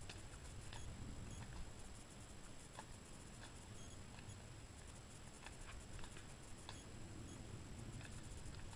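Faint, soft footfalls of a horse walking on a forest track, with scattered small clicks over a low, uneven rumble.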